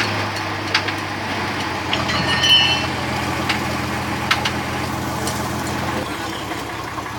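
Truck engine running steadily with a low hum that drops away about six seconds in, with a few sharp clicks and knocks over it.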